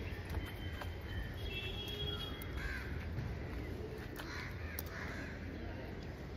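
Birds calling a few times over a steady low rumble of outdoor background noise.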